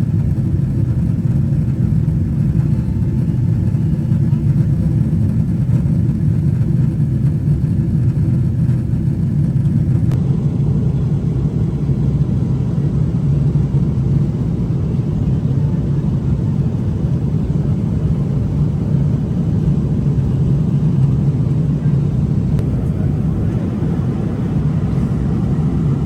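Steady low cabin rumble of a Boeing 777-300ER airliner: engine and airflow noise heard from inside the cabin. Its tone shifts a little about ten seconds in.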